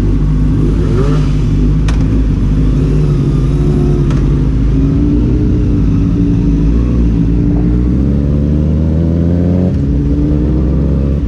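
Honda CBR sport bike engine accelerating under way, its pitch climbing steadily for several seconds and then dropping suddenly near the end as it shifts up a gear, with wind noise throughout.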